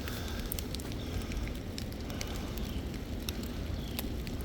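Wind rumbling on the microphone during a snowstorm, with scattered irregular ticks and crackles.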